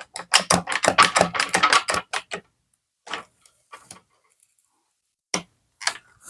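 Hand bar clamp being squeezed tight on glued wood: a quick run of ratcheting clicks for about the first two seconds, then a few scattered clicks.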